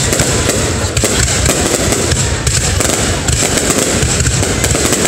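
Fireworks display: aerial shells bursting one after another in a dense, continuous run of bangs and crackles, with no pause.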